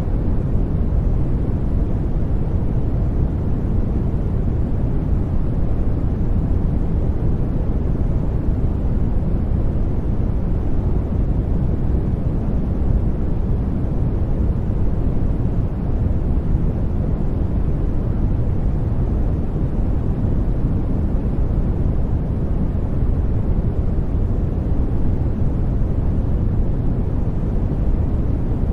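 Steady sleep-aid noise: an unchanging, deep hiss weighted toward the low end, like a soft rumble.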